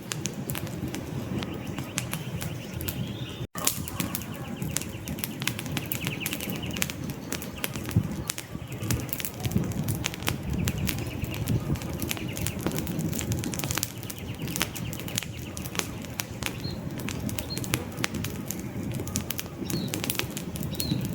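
Wood campfire burning: a steady low rush of flames under dense, irregular crackles and pops from the burning logs, with a few faint bird chirps in the later seconds.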